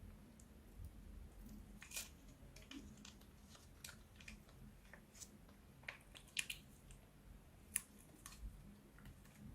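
Slime being worked from plastic piping bags: faint, scattered sharp clicks and crackles. The loudest snaps come about six and a half and eight seconds in.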